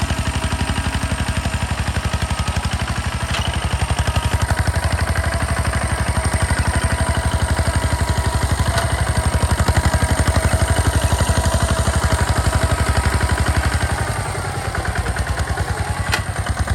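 Two-wheel walking tractor's engine running steadily with a rapid, even firing beat and some mechanical clatter. The level dips briefly near the end, then picks up again.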